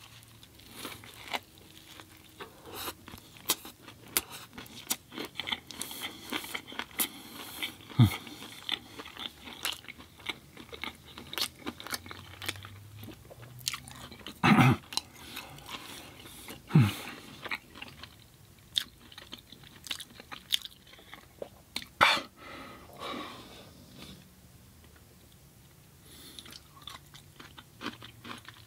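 Close-miked chewing and biting of food, with many wet mouth clicks and crunches and a few louder short mouth sounds.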